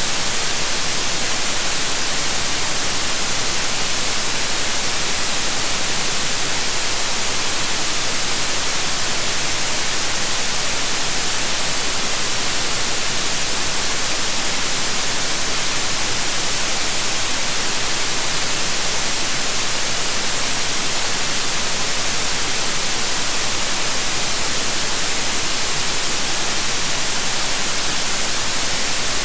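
Steady synthetic white noise: an even, unchanging hiss with most of its energy in the high frequencies.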